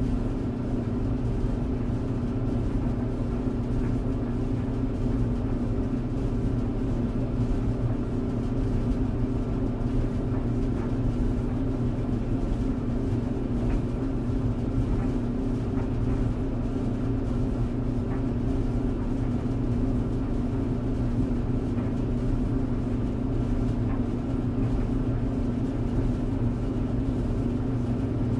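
Clothes tumble dryer running: a steady motor hum and drum rumble with a low drone, and a few faint light ticks now and then.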